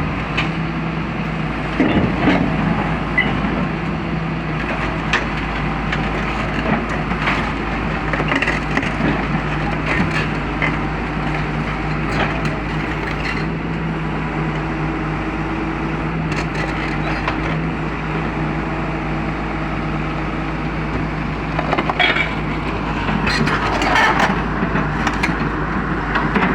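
Excavator diesel engine running steadily, with scattered short cracks and creaks over it.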